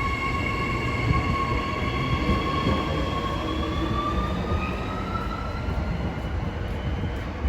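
Electric suburban train running through the station: a steady high whine with overtones that glides upward in pitch from about halfway and fades near the end, over a constant low rumble.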